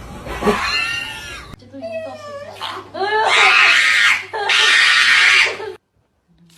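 Pet dog vocalising in long rising-and-falling whines and howls, then loud, shrill screaming in two long stretches that cuts off suddenly near the end.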